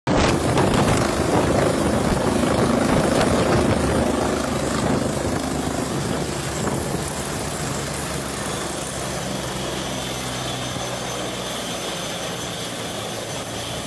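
Helicopter rotor and engine noise, loud in the first few seconds and easing off toward the end.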